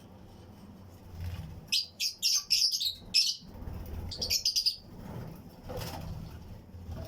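Fischer's and lutino lovebirds chirping in a colony: a rapid run of sharp, high chirps about two seconds in, then a second shorter run around four seconds in.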